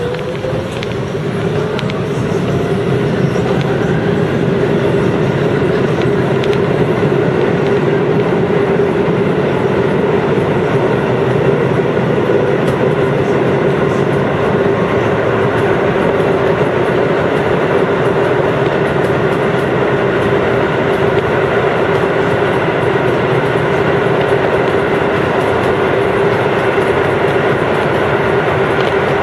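Chiba New Town Railway 9000 series electric train running at speed: a steady motor whine over wheel and rail noise. A rising whine levels off about a second in.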